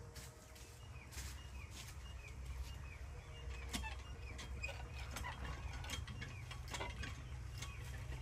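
Faint birds chirping, with a low steady hum underneath and a few soft clicks.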